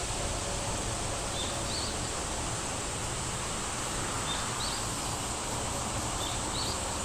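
Steady background hiss with a few faint, short, high chirps from a small bird, spaced a few seconds apart.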